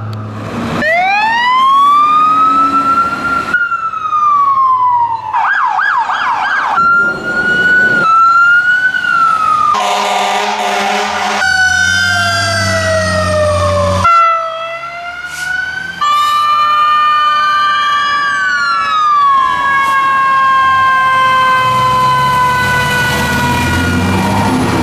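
Fire engine sirens on a 2016 Pierce Enforcer pumper running Code 3. The siren winds up about a second in, then switches between slow wail sweeps and a fast yelp. There is a steady horn-like blast about ten seconds in, and a long slowly falling tone over the last several seconds, with the truck's engine underneath.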